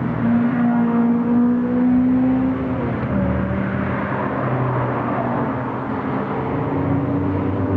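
Lotus sports car engine running under load, its note climbing slowly, dropping about three seconds in, then climbing again near the end.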